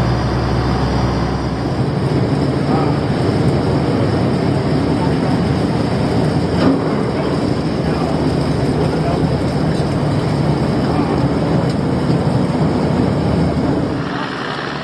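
Fishing boat's engine running steadily under way, a low hum under a dense rush of noise; the sound shifts and drops slightly near the end.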